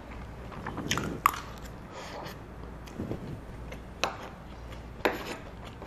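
A person chewing and biting food close to the microphone, with a few sharp, crisp clicks: about a second in, at four seconds and at five seconds.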